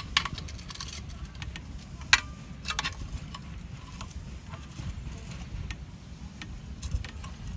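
Metal parts of a chainsaw mill clinking and clicking as they are handled and fitted, a few sharp clicks with the loudest about two seconds in, over a steady low rumble.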